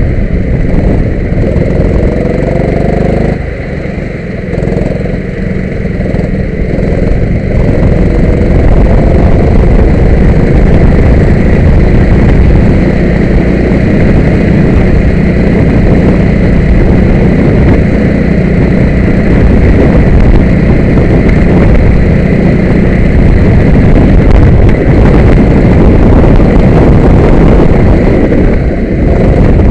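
Go-kart engine running loud and continuous, its pitch rising and falling as the kart speeds up and slows. It eases off briefly about three and a half seconds in and again near the end.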